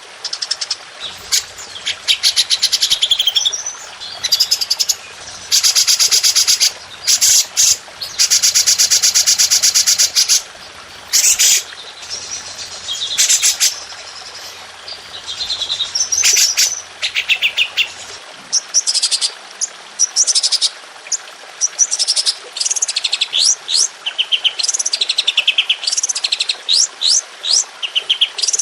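Songbird song made of long, very fast rapid-fire trills ('tembakan') and shorter chattering, whistled phrases, in runs of one to two seconds with brief pauses between them. A faint low hum sits under the song until about two-thirds of the way through.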